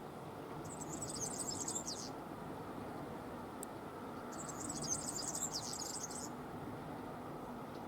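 A songbird singing two high, chirping phrases of about one and a half to two seconds each, the first about a second in and the second about four seconds in, over a steady low background rumble.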